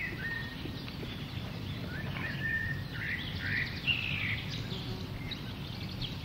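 Birds chirping and whistling in short scattered calls over a steady low outdoor rumble.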